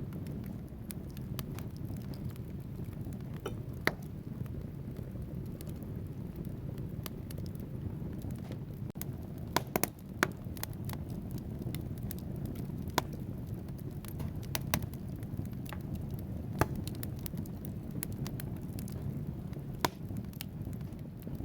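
Wood fire burning in a fireplace: a steady low rush of flame with scattered sharp crackles and pops from the burning logs, the loudest a quick cluster of pops about ten seconds in.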